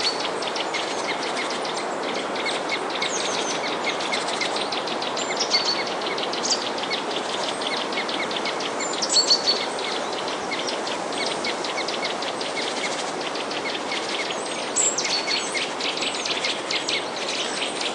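A chorus of many small birds chirping and twittering in quick, dense runs, with a few short whistled notes, over a steady noisy background.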